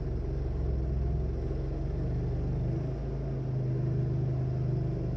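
A 27-horsepower stump grinder's engine running steadily under load as its cutter wheel grinds out a large tree stump.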